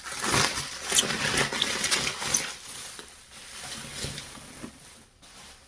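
Rustling and crinkling of packaging with light knocks as the exhaust parts are handled, busiest in the first couple of seconds and dying away after.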